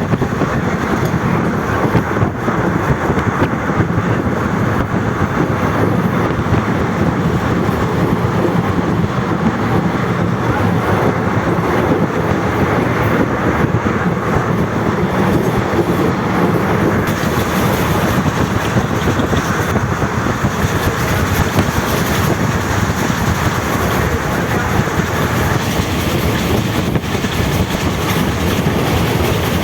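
Passenger train running along the track: a steady, continuous rumble of wheels on rails.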